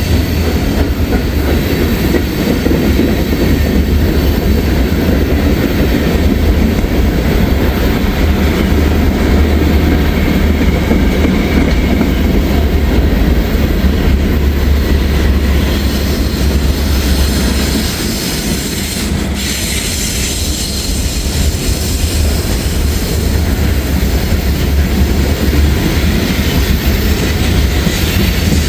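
Freight train's cars rolling past at close range: a steady, loud rumble and clatter of steel wheels on the rails, easing slightly about two-thirds of the way through.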